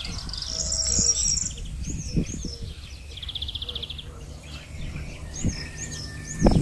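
Small birds chirping, with repeated high arching notes and a short buzzy trill about three seconds in. A few dull knocks sound underneath, the loudest just before the end.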